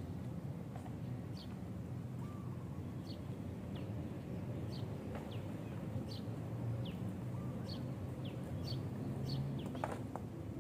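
Small birds chirping with short, high, downward-sliding calls repeated every second or so, over a steady low background rumble. A couple of knocks near the end.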